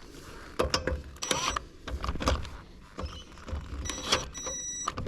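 Impact wrench fired in short bursts on a wheel nut jammed at the end of its stud, giving a series of brief, uneven metallic rattles and clanks.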